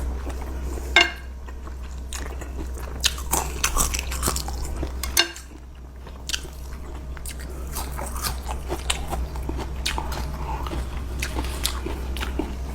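Close-up eating sounds: a person chewing and biting through a mouthful of curry noodles, with irregular crunches and wet mouth clicks. A low background hum drops away about five seconds in.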